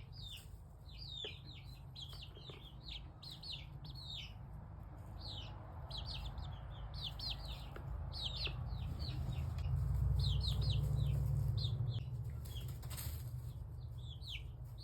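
Young chicks peeping: many short, high, downward-falling peeps in quick runs. A low rumble underneath swells about ten seconds in and eases off around twelve.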